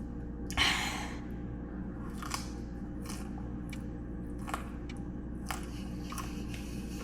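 A person chewing crunchy food close to the microphone, really loud. A big crunching bite comes about half a second in, followed by a run of shorter crunches as it is chewed.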